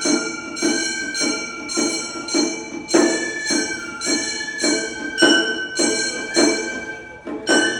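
Gion-bayashi festival music: small brass gongs (kane) struck in a steady rhythm of about two strokes a second, ringing brightly, under a high bamboo flute melody held in long notes.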